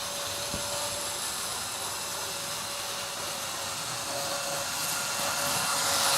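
The 40-year-old Hornby HST 125 model train running on its track: a steady motor whine with a high-pitched hiss, growing louder near the end. The noise comes from the set's aged original motor, which the owner calls a bad old motor.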